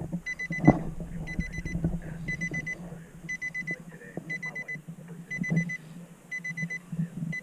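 Electronic alarm beeping: quick groups of about four high beeps repeating about once a second, over scattered clicks and knocks.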